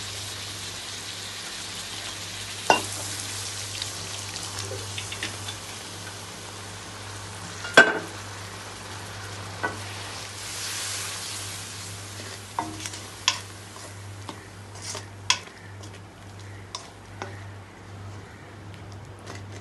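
Spiced tomato and onion masala sizzling in oil in a metal wok while a slotted spatula stirs it, scraping and knocking against the pan now and then. A steady low hum runs underneath.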